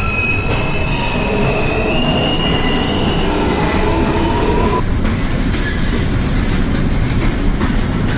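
New York City Subway L train car running between stations, heard from inside the car: a steady rumble with high whining, squealing tones, one slowly rising, for about the first five seconds. After that the tones drop away and the wheels click over rail joints.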